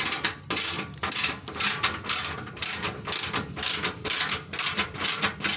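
Socket ratchet wrench worked in quick back-and-forth strokes to tighten a bolt, clicking in bursts about twice a second.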